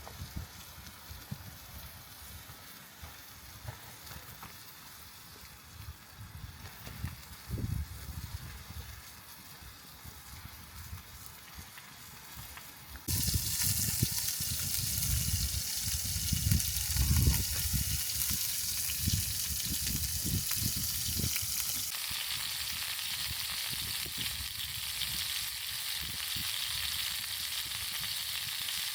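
Food sizzling as it cooks over a campfire, a loud even hiss that starts abruptly about halfway through. Before it, a quieter stretch with scattered low knocks and crackles.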